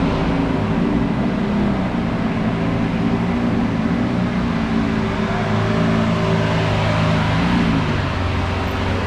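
Car engine running at idle close by, with a slight rise in revs twice, about two seconds in and again near the end.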